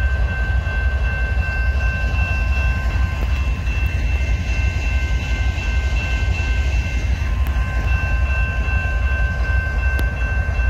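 CN freight train's diesel locomotives running past at close range with a heavy, steady low rumble. Several steady high tones are held over it throughout.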